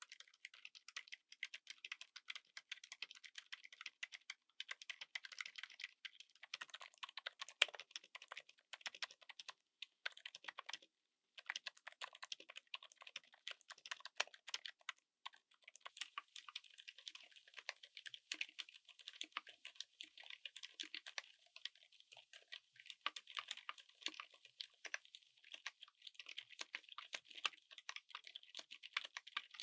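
Continuous fast typing on a mechanical keyboard fitted with silent switches: soft, dampened keystrokes in a dense run, with a brief pause about eleven seconds in.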